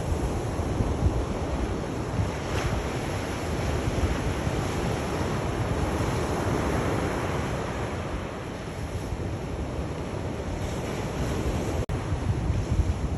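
Sea waves washing onto the shore, with wind rumbling on the microphone; one wave swells up and washes back out about halfway through. There is a momentary dropout in the sound near the end.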